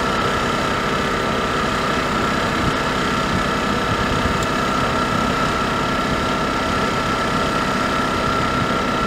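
A motor vehicle engine idling steadily, with a constant high-pitched whine over the low rumble.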